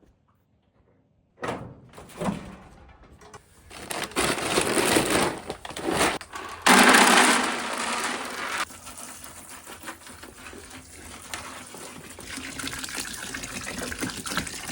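A knock about a second and a half in, then hot water pouring from a jug into a bucket of alfalfa pellets to soak them. The pour is loudest through the middle and quieter and steady near the end.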